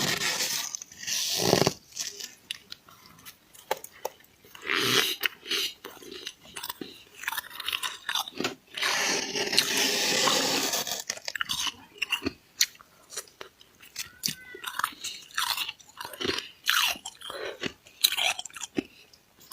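Deep-freezer frost being crunched, scraped and bitten: irregular crunches and crackles, with a longer stretch of steady crunching about nine to eleven seconds in.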